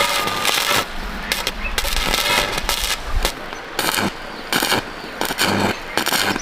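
Electric arc welding on an iron frame, the arc crackling and sputtering in short irregular bursts. A low machine hum runs underneath and stops about three seconds in.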